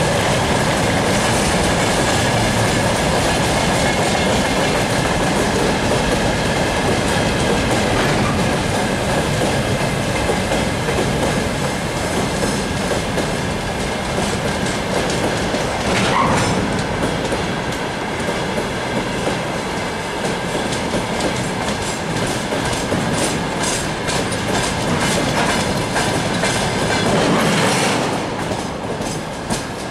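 Freight train's wagons and tank cars rolling past at close range, the wheels clattering over the rail joints in a steady rumble.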